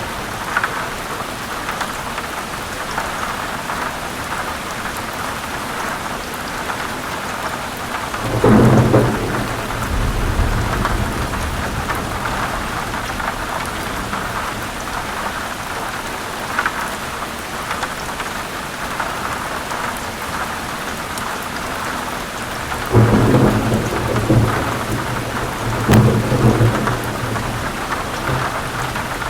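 Heavy rain pouring steadily in a thunderstorm, with low rolls of thunder swelling up about eight seconds in and twice more near the end.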